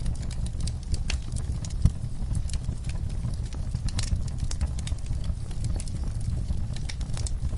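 Campfire crackling: irregular sharp pops and snaps over a steady low rumble, with one louder pop about two seconds in.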